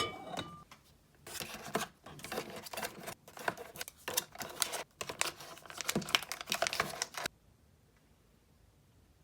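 Items being handled and packed into a mini fridge: a quick run of small clicks, taps and rustles of packaging and containers for about six seconds, stopping suddenly.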